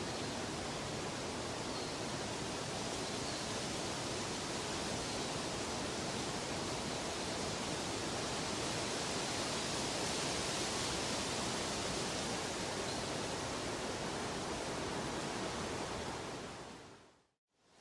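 Steady, even rushing noise of a nature-sound ambience track, with no distinct events. Near the end it fades out to silence, then begins fading back in.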